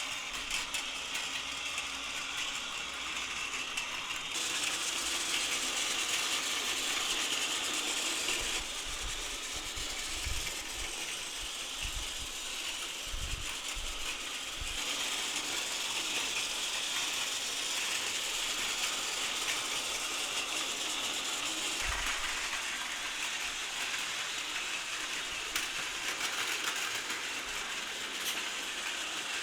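Battery-powered Plarail toy trains running on plastic track: the small motor and gearbox give a steady whirring clatter, with a changing mix of sound as the trains move along the layout.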